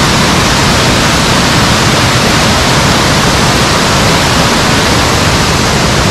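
Waterfall's rushing water: a loud, steady roar of falling water without a break.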